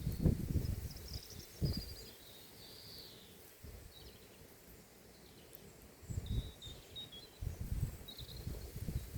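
Wind gusting over the microphone in low rumbles, strongest at the start and again in the last few seconds, with small birds chirping in short high calls throughout.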